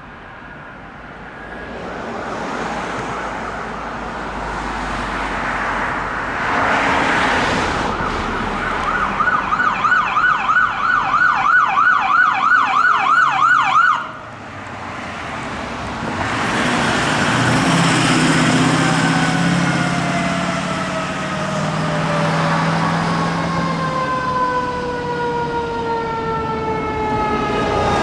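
Fire apparatus passing on an emergency response with sirens: traffic noise builds, then a siren yelps fast, about three pulses a second, and cuts off suddenly about halfway through. A siren then winds slowly down in pitch over the second half, over a low engine hum, and another siren starts rising right at the end.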